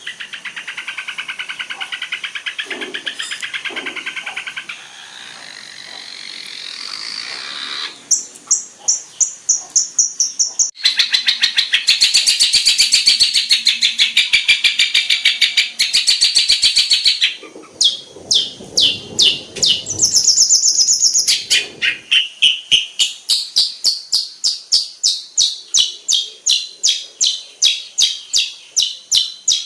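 Long-tailed shrike (cendet) song full of mimicked phrases. It starts with a chattering trill, moves to fast repeated high notes, then a loud dense trill, and near the end settles into a steady run of sharp repeated notes, about two or three a second.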